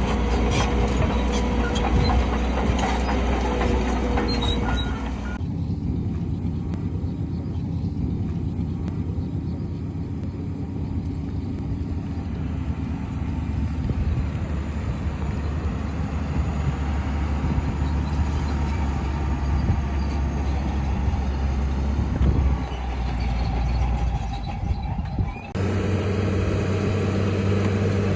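Diesel engines of heavy earthmoving machinery running steadily, with some clanking in the first few seconds. The engine sound changes abruptly about five seconds in and again near the end.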